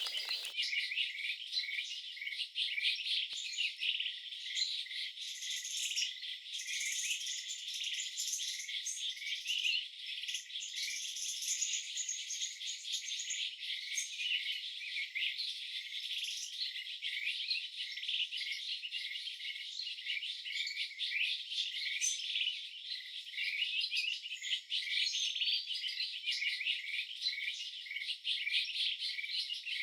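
Dense, steady chorus of insects and birds chirping, busy and high-pitched, with no low sound at all beneath it.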